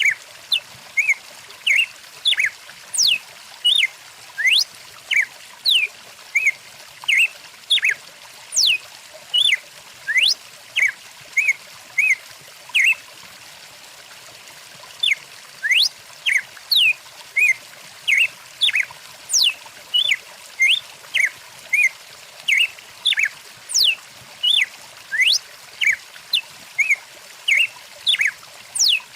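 Birds chirping rapidly, short whistled notes and quick sweeps up and down in pitch about twice a second, over a steady faint trickle of stream water. The calls pause for about two seconds midway.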